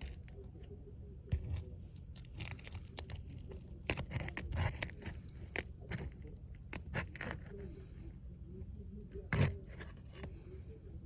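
Asphalt shingles being pried up and broken loose from their seal strips, in a series of irregular crackles, tears and scrapes with one loudest snap near the end. The shingles are brittle and the asphalt mat pulls away with the sealant, so they will not reseal.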